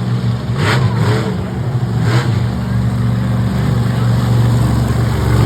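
Monster truck engine running loud, a deep steady drone with brief swells of noise about one and two seconds in.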